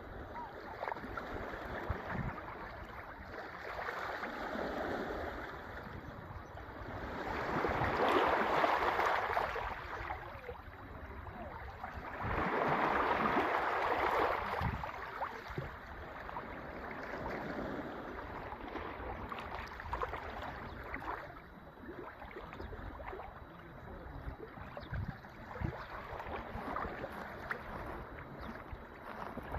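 Sea waves washing onto the shore, the surf swelling and fading, loudest about eight and thirteen seconds in, over a low, irregular wind rumble.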